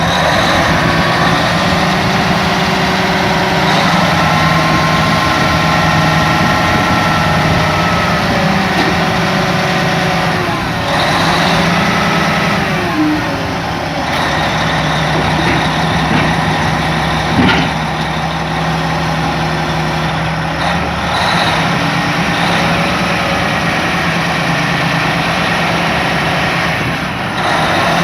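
Heavy diesel engine of a Cat D10N bulldozer running under varying load, its pitch rising and falling several times. There is a sharp knock about seventeen seconds in.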